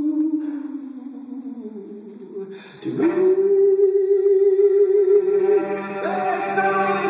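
Live solo violin with looped layers: a held note fades and sinks, then about three seconds in a loud new note with vibrato comes in over a steady low drone, and a second line joins near the end.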